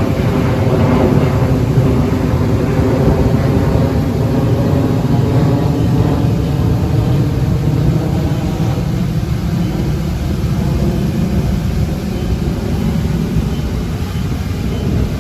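Heavy diesel engine of an earthmoving machine running steadily under work. Its note is strongest in the first half and eases a little toward the end.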